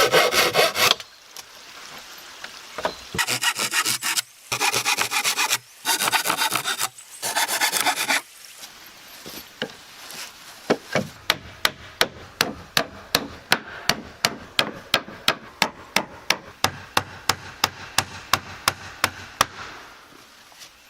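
A saw cutting wood in separate strokes, each about a second long, through the first eight seconds. Then a run of light, sharp, even ticks on wood, about three a second, lasting some eight seconds.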